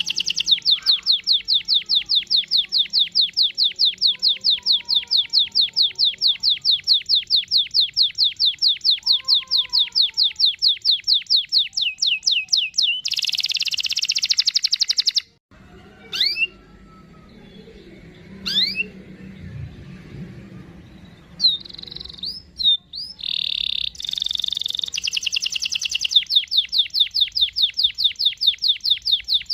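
Domestic canary singing a long rolling trill of fast, evenly repeated high notes, about six a second. Midway the trill breaks off for a few seconds of scattered short rising chirps, then dense song and the rolling trill resume.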